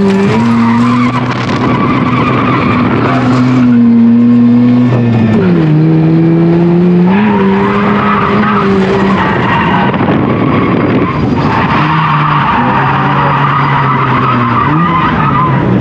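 Mazda FC RX-7's naturally aspirated 13B rotary engine held at high revs through a drift, with tires squealing. The engine pitch drops about five seconds in and changes again a few times. The squeal comes on strongest in two stretches in the second half.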